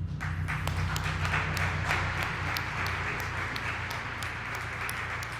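Audience applauding, many hands clapping at once, over a steady low hum.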